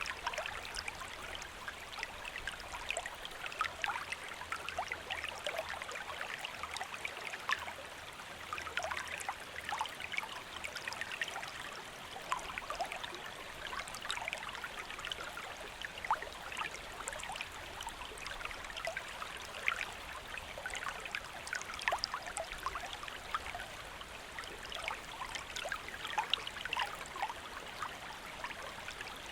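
Shallow stream flowing steadily over stones, a continuous babble with many small splashes and trickles.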